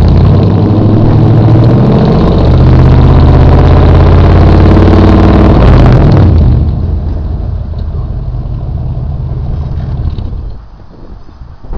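Straight-piped 5.0 V8 exhaust of a 1991 Chevrolet Caprice Classic, with no mufflers or catalytic converter, running loud and held at raised revs. About six and a half seconds in it falls off to a much quieter, steady note, dropping lower again near the end.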